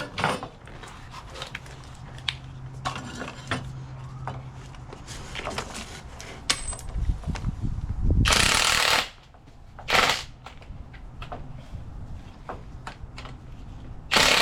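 Hand-tool work on a strut assembly: scattered metal clicks and clinks. A loud hissing burst lasting under a second comes about 8 seconds in, and a shorter one follows a second later.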